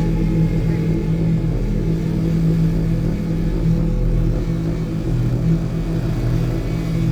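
Dirt bike engine running at fairly steady revs while riding.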